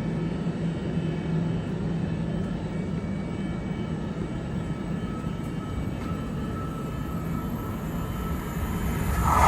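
Commuter train approaching: a steady low rumble that grows louder near the end.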